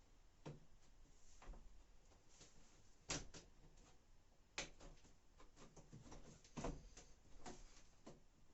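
Scattered light clicks and knocks of washing machine parts being handled and fitted back together, with a few sharper clacks about three, four and a half and almost seven seconds in.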